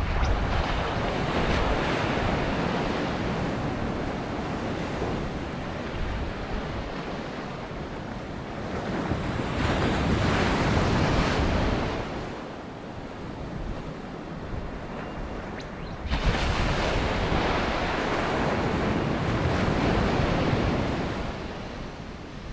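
Ocean surf: waves breaking and washing up the beach, the roar swelling and fading, with a fresh wave breaking suddenly about two-thirds of the way through. Wind buffets the microphone throughout.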